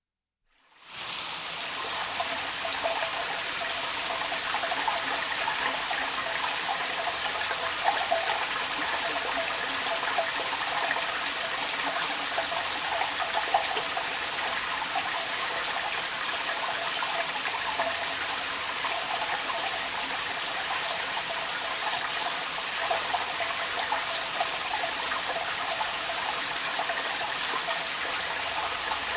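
Rain falling while water runs and splashes steadily out of a downpipe, fading in over the first second.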